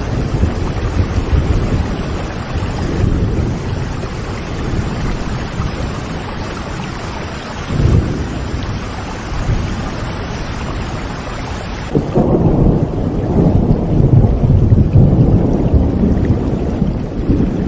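Steady rain with rolling thunder. About twelve seconds in, the sound changes suddenly: the rain's hiss fades and a louder, deeper rumble takes over.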